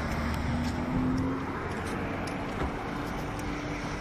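Steady road-traffic noise, with a motor vehicle engine's hum that swells slightly about a second in.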